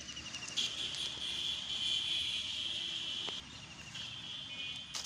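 An insect trilling: a high, steady buzz that swells about half a second in, breaks off a little past three seconds, then comes back more softly. There is a sharp click where it breaks off and another near the end.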